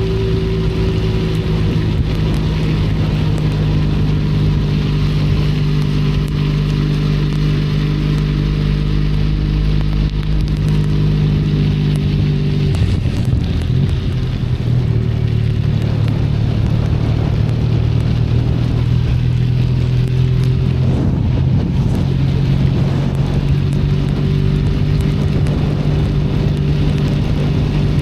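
Benelli Leoncino 500's parallel-twin engine running at steady riding revs, its note shifting about halfway through and wavering again about three quarters through as the throttle changes, over a steady hiss of rain.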